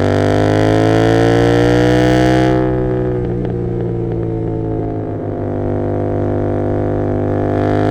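Royal Enfield Continental GT 650's 648 cc parallel-twin engine through an Emgo cafe muffler with no dB killer, revs rising under acceleration. About two and a half seconds in the throttle closes and the exhaust crackles on the overrun as the revs fall. Near the end it pulls up again.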